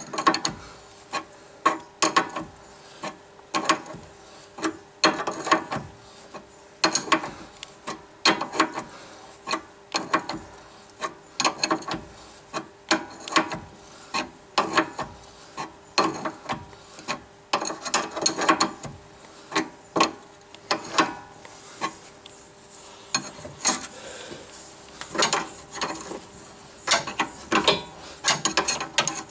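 Hand ratchet wrench clicking in repeated short bursts of strokes, with pauses between them, as a suspension nut is turned.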